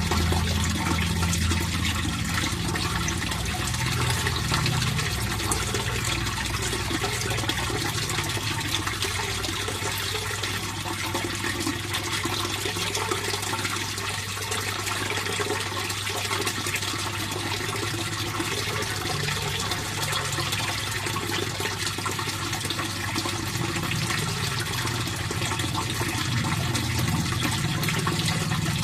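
Fish pond water flowing and splashing steadily, an even rushing noise, with a low steady hum underneath.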